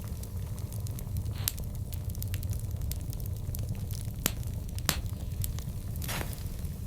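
Wood fire burning, with a steady low rumble from the flames and scattered crackles, including a few sharp pops.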